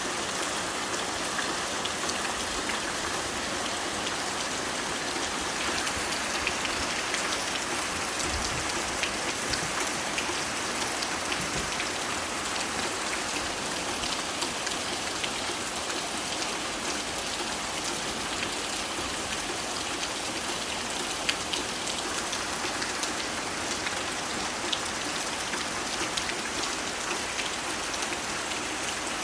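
Steady rain falling on a tin (corrugated metal) roof: a constant hiss with many small, sharp drop ticks on the metal.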